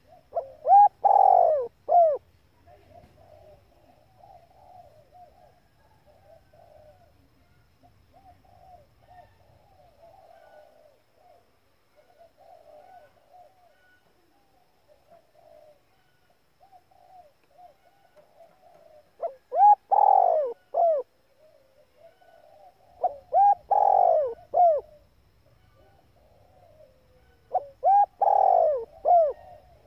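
Female spotted dove cooing: a loud coo phrase about a second in and three more in the last ten seconds, with soft, quieter cooing in between. It is a female's call of the kind played to rouse male decoy doves.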